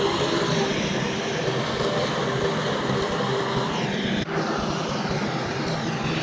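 Heavy diesel engines of earthmoving machinery running steadily under load, with a brief break about four seconds in.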